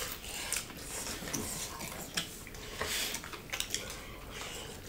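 Close-up eating sounds: chewing and mouth noises with frequent short, irregular clicks as food is eaten by hand.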